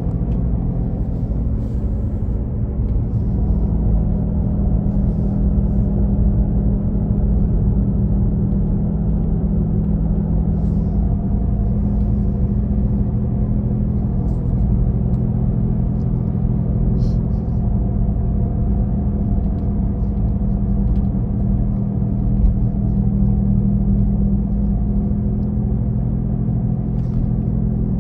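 Steady low droning hum with several held tones from the rear of a 2017 Nissan Leaf while driving, sounding like a petrol engine; the owner does not know its cause.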